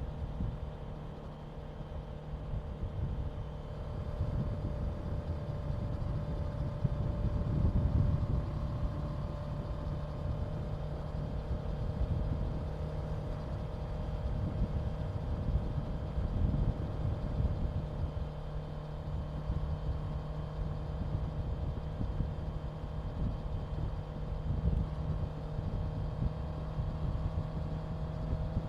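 Honda CBR650F's inline-four engine running at a steady cruise over a low rush of wind and road noise, getting louder a few seconds in.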